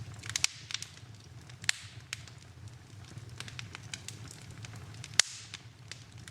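Wood fire in a fireplace crackling, with irregular sharp pops, the loudest about five seconds in, over a steady low hum.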